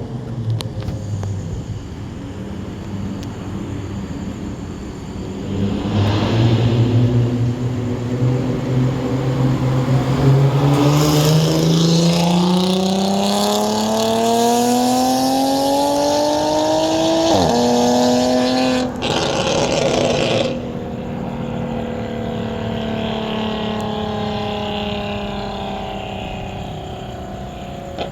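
Straight-piped Audi S4 engine accelerating hard, its pitch climbing steadily for about ten seconds. The pitch then drops sharply once at a gear change, and the engine eases off and runs on with the pitch slowly falling.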